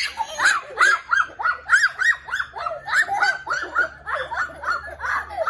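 A dog barking in rapid, high-pitched yaps, about four a second, without a break.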